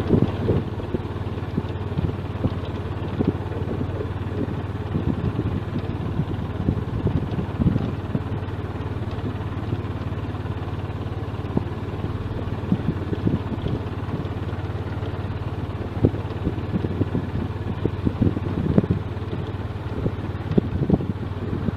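A vehicle engine and road noise heard from on board while driving, a steady low hum broken by frequent short low thumps.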